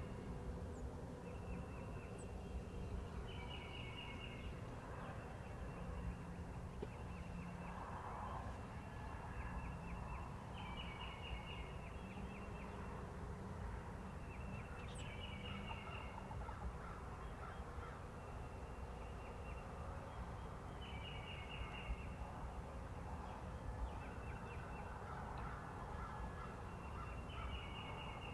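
Wild birds calling in the woods: a quick run of high notes about a second long, repeated every few seconds.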